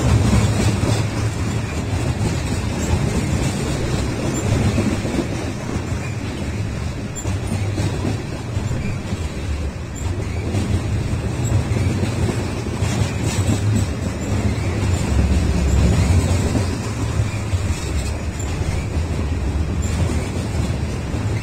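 Freight train of loaded steel-coil cars rolling past close by, giving a steady low rumble of wheels on rail, with a few faint high squeaks and clicks from the wheels.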